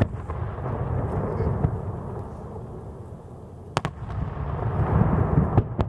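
Aerial fireworks shells bursting: a sharp bang about four seconds in, with a long low rolling rumble and crackle that builds again toward the end.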